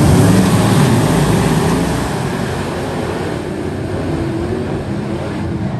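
Sprint car engines running loud on a race track, easing off a little about two seconds in.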